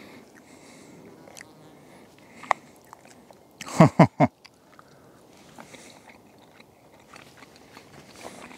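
A man chewing food, with light clicks of a knife and fork against a metal plate. About four seconds in there is a brief, loud voiced sound from him, like a short murmur.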